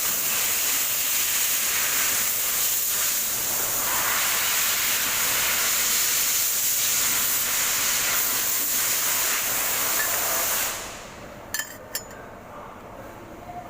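A loud, steady hiss that cuts off suddenly about eleven seconds in, followed by two sharp clicks.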